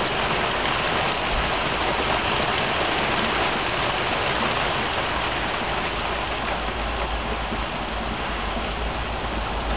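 Heavy rain falling steadily, with a low rumble underneath that grows stronger about halfway through.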